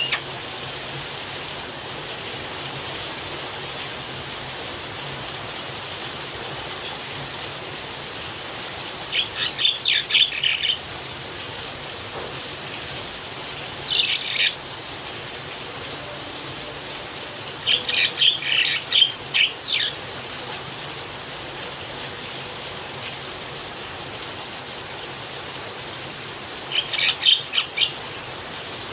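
A Javan myna calls in four short bouts of rapid, high, chattering notes, spaced several seconds apart, over a steady hiss of falling rain.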